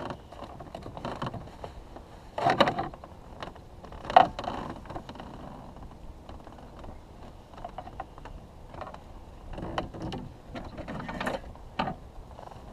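A fishing reel being cranked to retrieve a lure, its gears clicking irregularly, with a couple of louder sharp knocks about two and a half and four seconds in.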